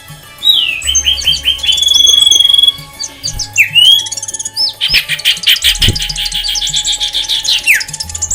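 Songbirds chirping and calling in quick whistles, sweeps and rapid trilled runs, with a long fast run in the second half. Background music with a low bass line plays underneath.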